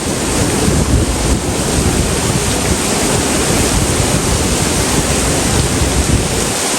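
Stormy weather: wind gusting and rumbling on the microphone over a steady rushing hiss of heavy rain.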